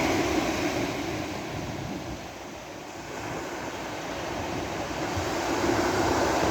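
Sea waves washing on a beach: a steady rush of surf that eases about two seconds in and swells again near the end.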